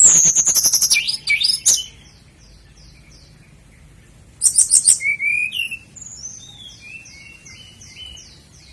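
Common nightingale singing. A loud, rapid phrase of repeated notes fills the first two seconds, then comes a pause and another loud burst about four and a half seconds in. After that a softer run of short, descending whistles follows.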